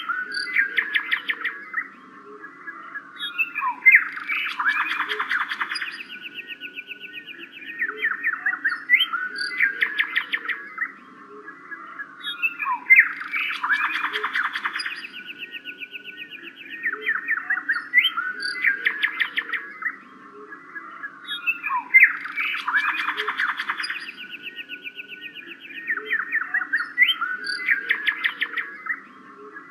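Several birds chirping and trilling in quick series, the same stretch of calls coming round again about every nine seconds.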